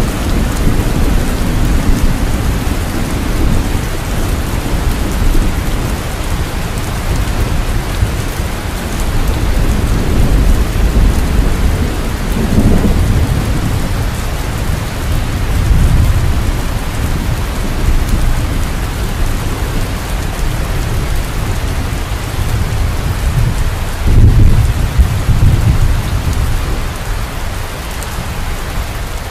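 Steady heavy rain falling, with low rolling rumbles of thunder that swell up several times, the loudest near the end.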